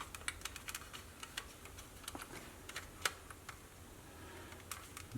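Light, irregular clicks and taps of the plastic case of a Sony WM-B18 Walkman being handled and pried at to unclip its halves.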